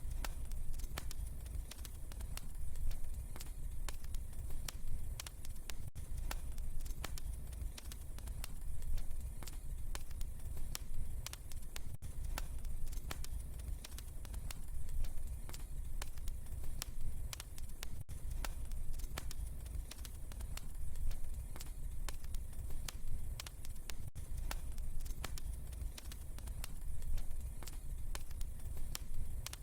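Wood fire in a fireplace crackling, with frequent sharp little pops and snaps over a steady low rumble of the flames.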